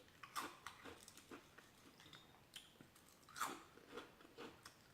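Faint chewing and crunching of light, airy chicharrones (fried pork rinds) in the mouth: scattered soft crackles, the strongest about three and a half seconds in.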